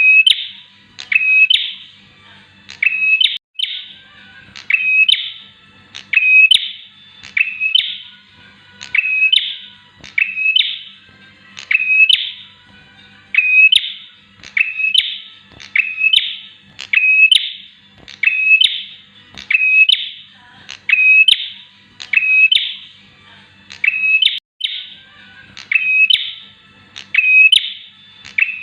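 Bar-winged prinia singing: one loud, high, sharp phrase repeated evenly about every one and a half seconds, each a quick upward note running into a short held note.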